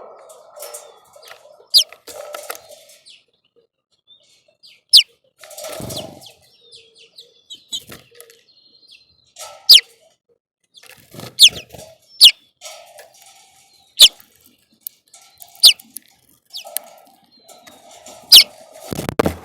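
Small birds chirping: single sharp chirps that drop in pitch, about eight loud ones at irregular intervals with fainter calls between, and a thump near the end.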